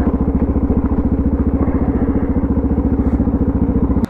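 Suzuki DR650's single-cylinder four-stroke engine running at a steady speed, with an even, rapid pulse. It cuts off suddenly at the very end.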